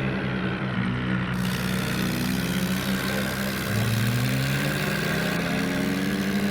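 Heavy diesel engine running under load, its pitch rising and falling as it is revved.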